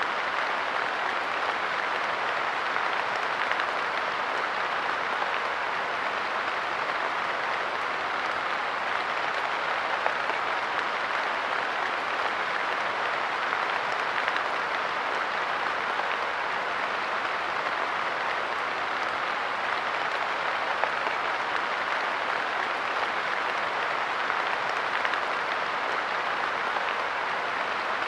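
Steady light rain pattering on a park bench, an even patter of many small drops with a few slightly louder drips standing out.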